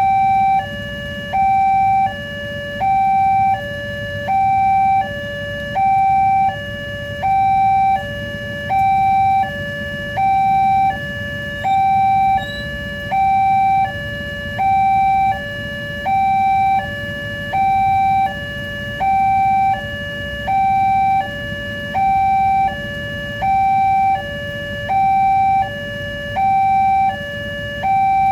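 Railway level-crossing warning alarm sounding a repeating two-note electronic tone, alternating high and low, about one high-low cycle every second and a half, with the higher note louder. A low steady rumble runs underneath.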